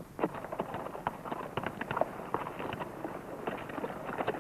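A rapid, irregular clatter of footfalls on hard ground.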